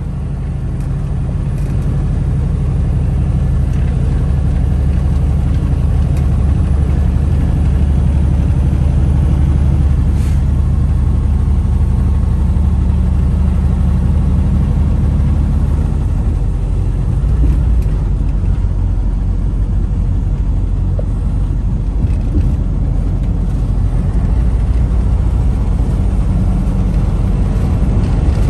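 Semi truck's diesel engine and road noise heard inside the cab while driving on the highway: a steady low drone that grows louder over the first couple of seconds.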